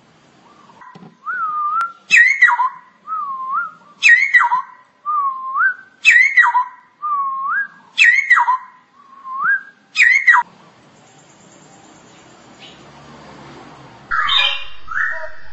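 Straw-headed bulbul singing: a clear whistled phrase repeated about once a second, a sharp note sweeping down followed by a rising whistle. It breaks off after about ten seconds, and near the end a different, louder call begins.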